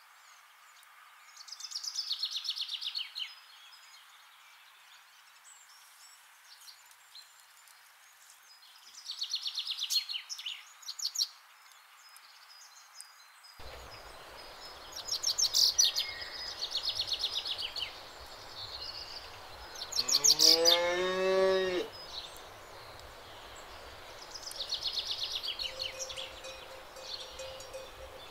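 A cow moos once, about two-thirds of the way in: one long call that rises in pitch. Short, high chirping trills come and go several times around it.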